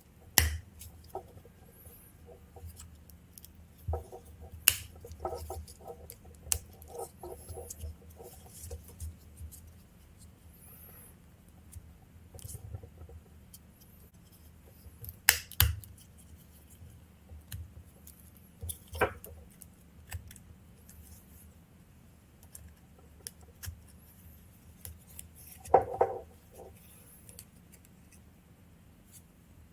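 Scattered sharp metallic clicks and taps from hand tools working the small parts of a motorcycle ignition switch as it is taken apart, a few seconds apart, the loudest about halfway through.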